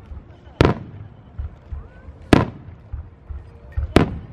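Firework shells bursting overhead: three sharp booms about a second and a half apart, each trailing off in an echo, with fainter low thuds between them.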